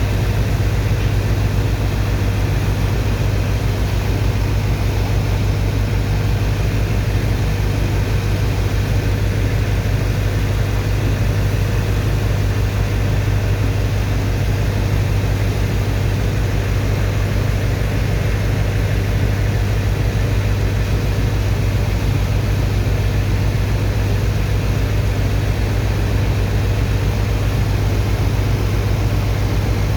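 Large diesel engine of a sand dredger's pump running at constant speed during sand unloading: a steady, loud, deep drone with a fast even pulse and a hiss of noise above it.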